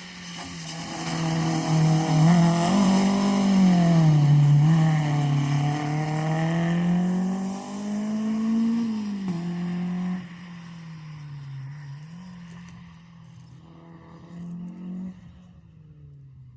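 Rally car engine lapping a tarmac track, its pitch rising and falling through the revs and gear changes as it passes close by. The engine is loud for the first ten seconds, then drops off suddenly to a more distant drone, with a brief swell near the end.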